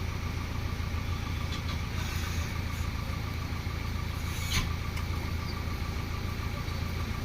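Heavy diesel engine of a backhoe loader or tipper truck idling steadily, with one brief knock a little past halfway.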